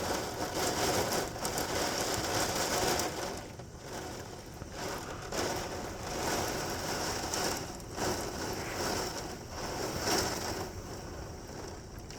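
Torrential rain with gusting wind, a rushing noise that swells and eases every second or two.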